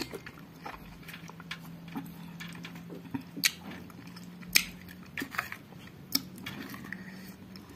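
A person chewing and biting a spicy-sour mak mao (bignay berry) som tam salad, with a few sharp clicks scattered through, the loudest about three and a half and four and a half seconds in. A faint steady low hum runs underneath.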